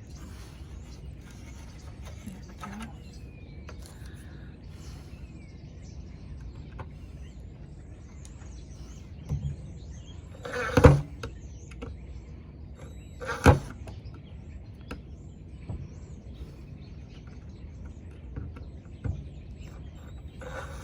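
Work on painted hinge screws: a steady low background broken by scattered clicks and knocks, with two sharp louder knocks about halfway through.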